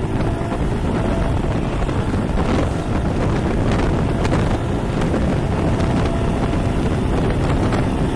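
Suzuki Gixxer 155's single-cylinder engine pulling hard under acceleration, mostly buried under heavy wind buffeting the action-camera microphone; the loudness climbs in the first second. The quick pickup comes from a service that replaced the throttle cables, chain and sprocket.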